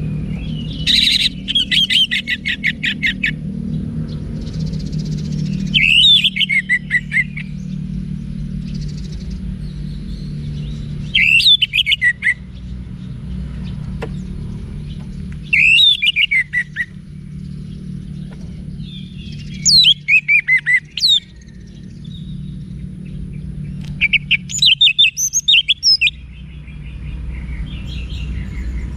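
Orange-headed thrush singing in separate phrases of rapid, high, varied notes, one phrase every four to five seconds, six phrases in all, over a steady low hum.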